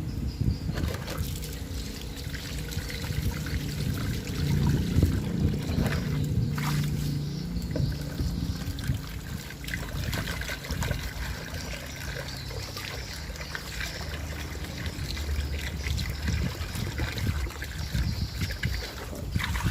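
Climbing perch and snakehead grilling over an open fire: a continuous sizzle with scattered fine crackles, over a steady low rumble.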